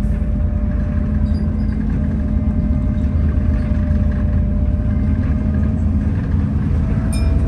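Alexander Dennis Enviro400 double-decker bus under way, heard from inside: a steady low engine and drivetrain rumble with a thin hoover-like whine above it. The whine rises slightly in pitch near the end.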